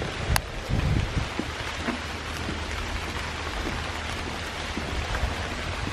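Steady rain falling, an even hiss throughout. A sharp click and a few dull low thumps come within the first second.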